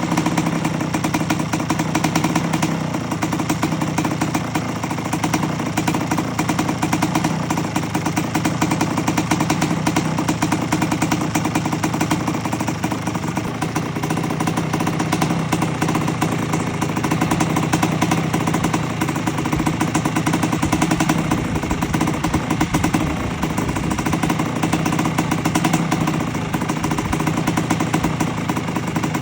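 1984 Honda CR250's two-stroke single-cylinder engine running steadily at a fast idle, with no revving.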